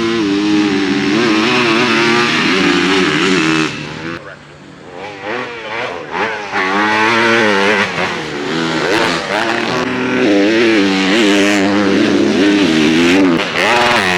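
Motocross bike engines running on the track, the pitch rising and falling as riders work the throttle and shift. The sound eases off briefly about four seconds in, then revs back up.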